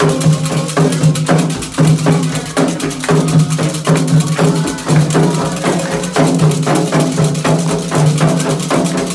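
Candomblé atabaque drums and a struck bell playing a fast, dense ritual rhythm for Xangô, with voices singing over it.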